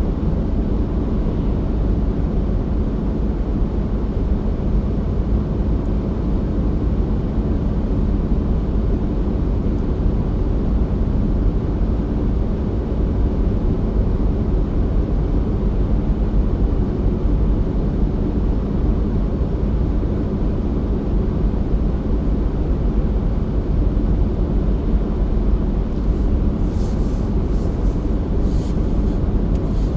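Car driving: a steady low rumble of engine and tyre noise on a winter road, with a few faint clicks near the end.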